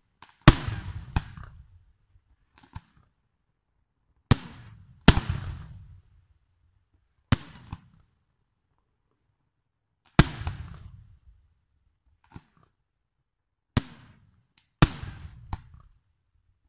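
Aerial firework shells from a Chiarappa Fireworks display bursting overhead: about ten sharp bangs in irregular groups, each trailing off in a rolling rumble, with a pause of a couple of seconds near the middle.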